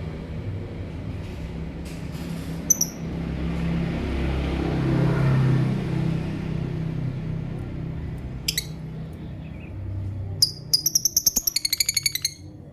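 Lovebird chirping: a single sharp high chirp, another a few seconds later, then a quick run of shrill chirps near the end. A low rumbling background noise lies underneath.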